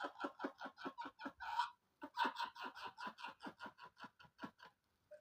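A man laughing in a long run of quick, staccato "heh-heh-heh" pulses, about five a second, with a short break about two seconds in. The laugh trails off a little before the end.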